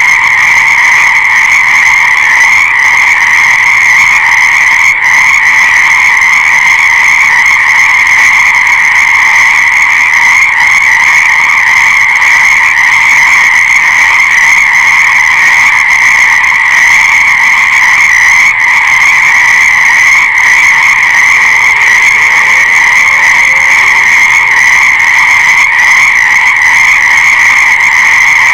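Dense chorus of many frogs calling at once, steady and unbroken.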